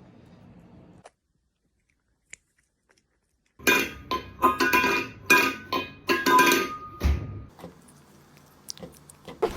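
A run of a dozen or so sharp clinks and knocks with short ringing tones, starting after a few seconds of silence and thinning to a few faint ticks near the end.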